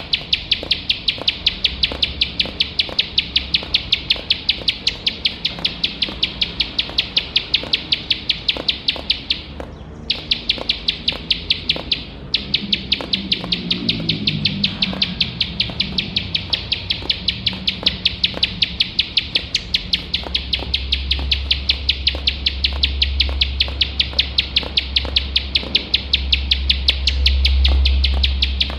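Plain prinia (ciblek sawah) singing a fast, unbroken run of repeated high ticking notes, about four to five a second, pausing briefly twice near the middle. A low rumble runs underneath, stronger near the end.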